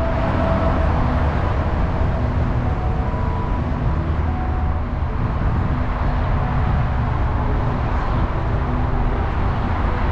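Car being driven: steady engine and road noise.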